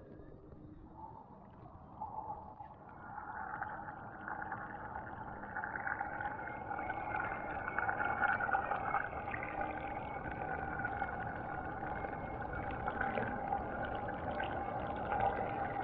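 Aiper Seagull 3000 robotic pool cleaner running in the pool: a steady motor whine over churning water that comes in about two to three seconds in.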